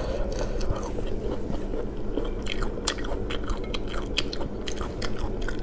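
Close-miked chewing of spicy braised chicken feet and tendons, with many irregular crunchy clicks as cartilage and skin are bitten.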